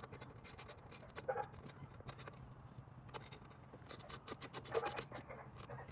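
Faint, irregular clicks and scratches of a 1/4-inch socket wrench and metal fittings as the Allen bolts on a quad's stock exhaust are tightened, with a quicker run of clicks about four to five seconds in. A faint steady low hum runs underneath.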